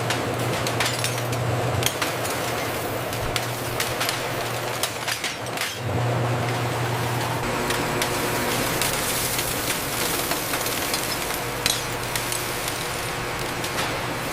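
Factory floor machinery running with a steady low hum over a dense hiss, and scattered small clinks and taps throughout. The hum drops out for a few seconds partway through and then returns.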